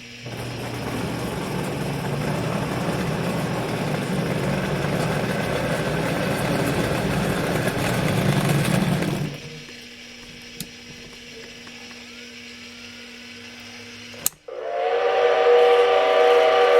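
Marx 1666 tinplate toy locomotive running on its track with a steady mechanical whir and clatter that stops after about nine seconds. Near the end a loud pitched tone comes in and holds for a couple of seconds.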